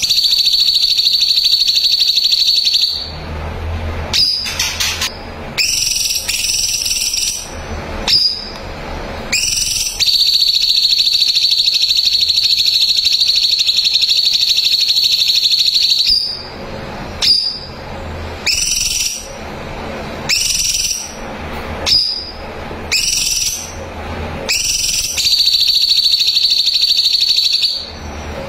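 A songbird singing loudly: long, rapid, high trills held for several seconds each (three of them, the middle one longest), broken by runs of short, upward-sweeping chirps.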